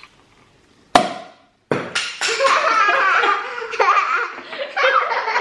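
A single sharp bang about a second in, an accidental knock, followed by loud, sustained laughter.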